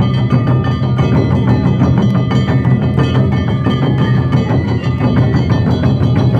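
Live Japanese taiko drumming: dense, rapid drum strokes played continuously with pitched instruments sounding over them.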